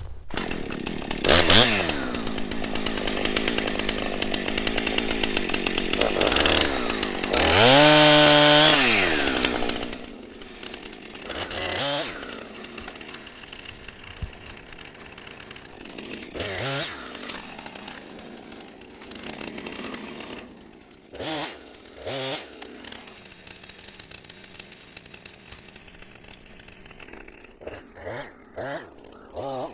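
Husqvarna 455 Rancher two-stroke chainsaw at high revs, limbing a felled tree, for about the first ten seconds, with a long rise and fall in pitch near eight seconds. It then drops to idle, with short blips of the throttle every few seconds.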